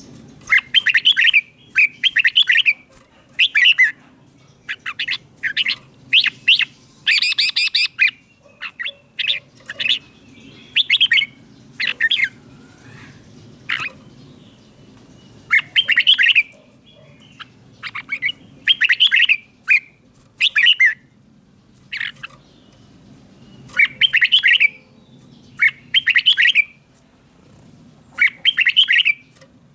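Red-whiskered bulbul singing short, loud whistled phrases, repeated every second or two with a few longer pauses.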